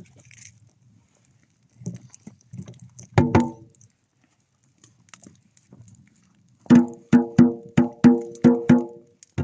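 A tuned percussion instrument: a single struck note rings out about three seconds in, then from about seven seconds a quick rhythmic run of struck notes follows, roughly three a second.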